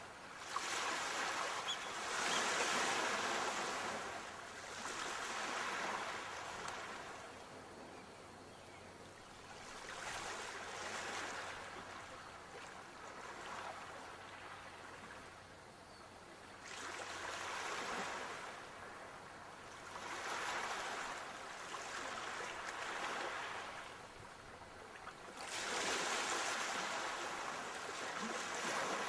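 Sea waves breaking and washing on the shore, surging and falling away in slow swells every few seconds, the biggest one about a second in and another near the end.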